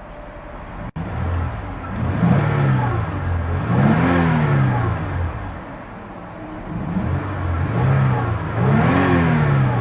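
2004 Toyota Sienna's 3.3-litre V6 revved twice from idle, the pitch rising and falling back each time, with a throaty rumble.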